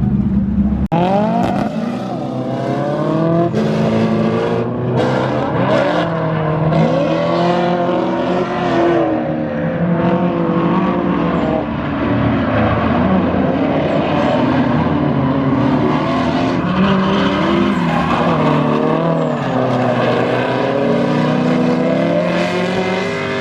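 Drift cars on track: engines revving hard with pitch swinging rapidly up and down, with tyre squeal.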